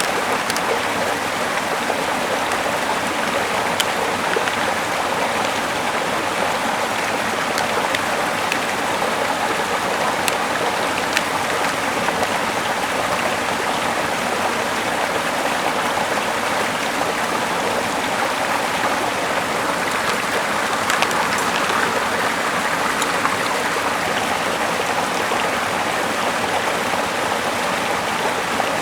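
A small river flowing steadily in an even rush of water, with a few scattered sharp ticks.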